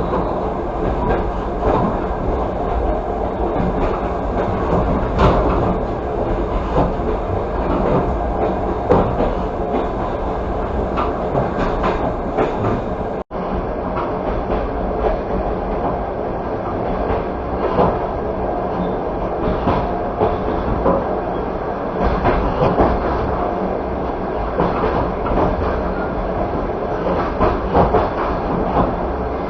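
Passenger train carriage rolling along the track: steady running noise with repeated clicks and clacks from the wheels over the rail. The sound cuts out for an instant about 13 seconds in, then carries on unchanged.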